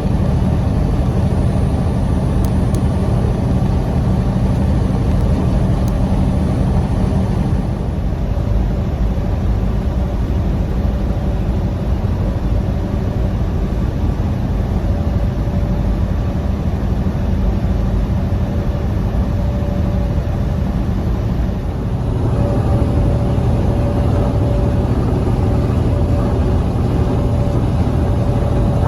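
Steady running of a vehicle: engine and road noise, with a low rumble and a faint steady hum. The sound shifts slightly twice along the way.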